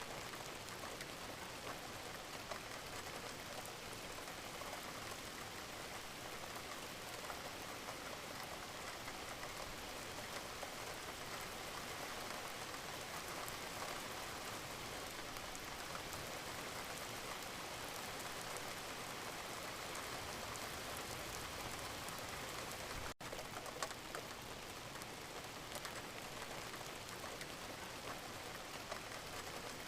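Wood fire burning in a fireplace: a steady hiss with scattered small crackles and pops. The sound drops out for an instant about 23 seconds in.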